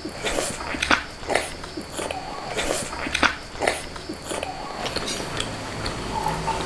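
Close-miked wet chewing and biting of a large pempek kapal selam, a chewy fried fish cake with an egg inside. Smacking mouth sounds come about twice a second, die away about four seconds in, and a low steady hum comes in near the end.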